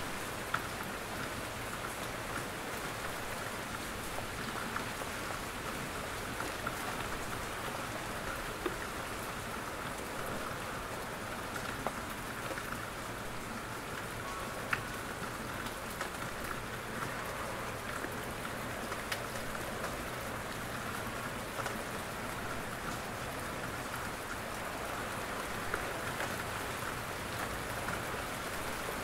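Steady rain falling in a forest, with scattered louder drops hitting close by.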